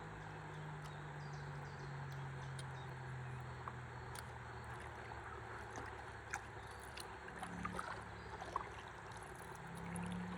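Gentle river water trickling and gurgling around a drifting stand-up paddleboard, with small scattered drips and ticks and a faint low hum underneath.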